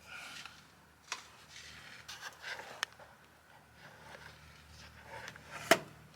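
A few light clicks and taps of handling noise, with one sharper click near the end, over a low steady hum.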